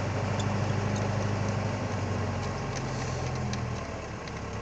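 Perkins 135Ti turbo diesel of a Foton 1069 truck running steadily at a raised idle, its throttle pedal held down by the cable of the warm-up idle regulator. The note changes slightly near the end.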